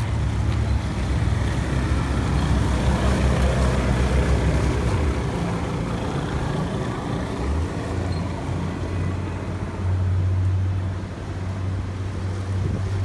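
Pontoon boat's motor running steadily under way. Its low hum shifts in pitch a little past halfway through.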